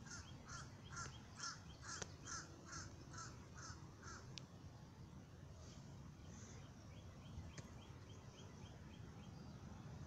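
A bird calling: a run of about ten short notes, a little over two a second, in the first four seconds, then a fainter, quicker series of notes later on, over a faint low rumble.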